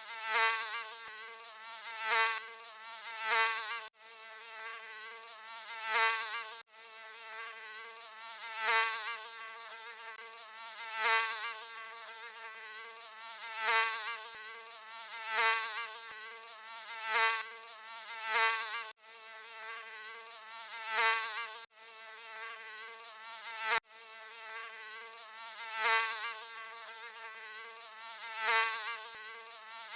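Mosquito buzzing: a thin, high whine that swells louder and fades back about every two seconds, as if flying close past the ear. A few sudden brief breaks interrupt it.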